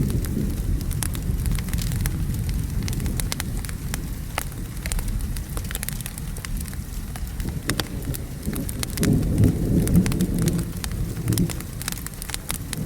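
Steady rain with a continuous low rumble of thunder, and a louder roll of thunder from about nine seconds in that fades about two and a half seconds later. Sharp pops and crackles of a wood fire sound throughout.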